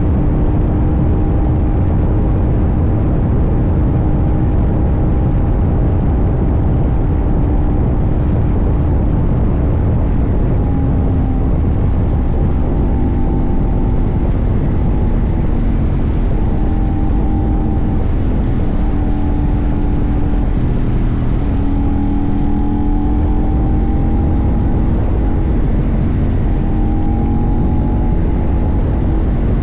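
CFMoto 800NK's 799 cc parallel-twin engine running at a steady cruise, heard from the tank with heavy wind rush, its pitch rising and dipping slightly now and then.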